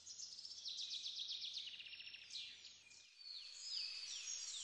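Songbirds singing: fast series of high, quick chirps and trills, faint.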